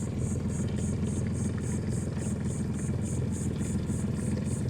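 Boat motor running steadily at low cruising speed, a constant low hum with no change in pitch.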